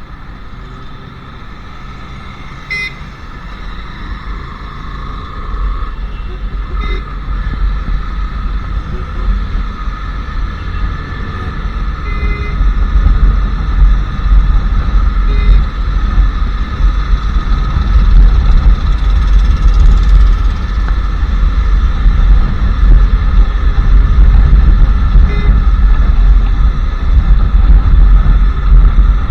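Royal Enfield Classic 350's single-cylinder engine running under way, with its rumble and road noise growing louder over about the first fourteen seconds and then holding steady. Traffic is around, with several short horn toots.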